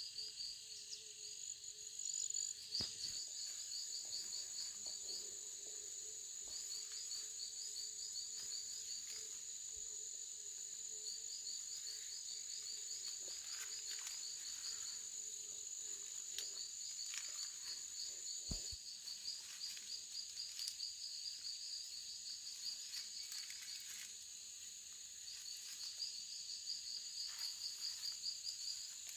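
Insects calling: a steady high buzz runs throughout, while trains of rapid chirps start and stop every few seconds. A single sharp knock comes about two-thirds of the way through.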